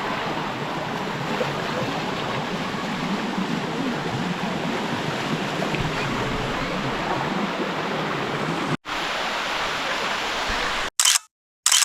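Water rushing steadily over the mineral-coated rock cascades of a waterfall, an even, constant wash of sound. It drops out abruptly for a moment near the end.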